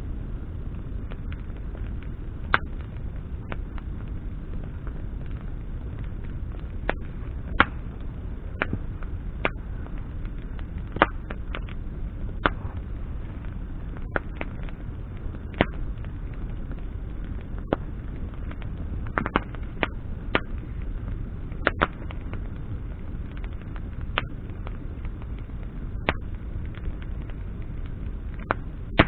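Wood campfire of burning branches crackling: sharp, irregular pops every second or two over a steady low rumble.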